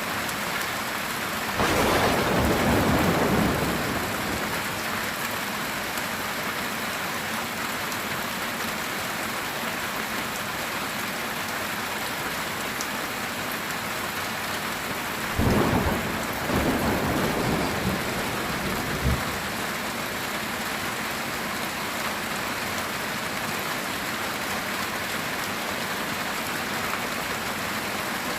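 Heavy rain falling steadily on a metal tin roof, with two thunderclaps: one breaks about two seconds in and rumbles for a couple of seconds, the other strikes about halfway through and rumbles on for a few seconds, ending with a short sharp crack.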